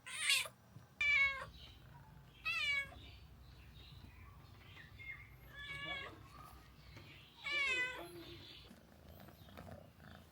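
A cat meowing, about five separate calls spread over several seconds, each with a wavering pitch.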